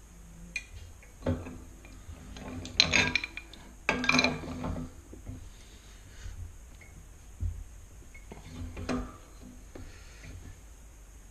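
A large pipe wrench clinking and scraping against a metal radiator pipe fitting as it is set and tightened, in a series of separate metallic clanks with the loudest bunched about three to four seconds in.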